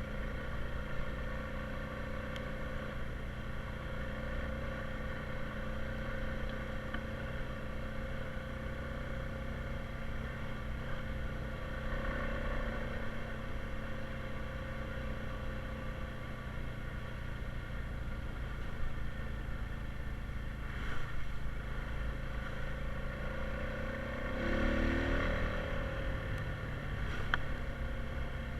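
Honda Rubicon 520 ATV's single-cylinder engine running steadily under way, rising briefly in pitch and loudness near the end as it speeds up.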